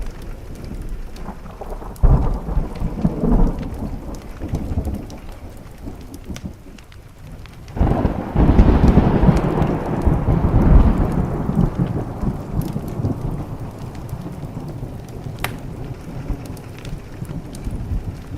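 Thunder over steady rain: a sharp clap about two seconds in with a second rumble just after, then a louder peal starting about eight seconds in that rolls on and fades away over several seconds.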